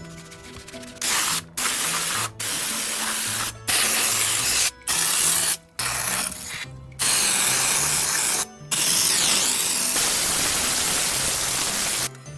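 Water spraying hard in long hissing bursts, as when dryer parts are rinsed under a jet, starting and stopping abruptly about half a dozen times. Light background music plays underneath.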